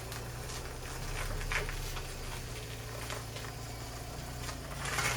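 A 1992 Vauxhall Cavalier's 2.0-litre C20NE four-cylinder engine running at idle, freshly cold-started and running smoothly with no tapping. A few short scuffing noises sound over it, the loudest near the end.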